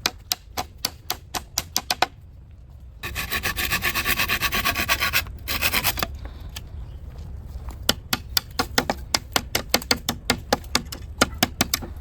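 Hand tools working material. Quick sharp taps come several a second, then about two seconds of rasping like sawing or filing about three seconds in, then a longer run of fast taps.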